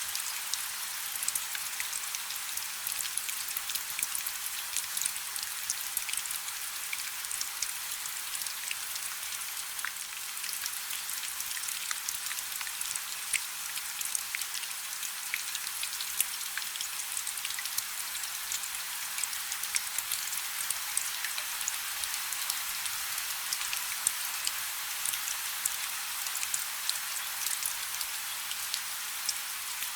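Light rain falling steadily: an even hiss full of many small drop ticks, with little low end.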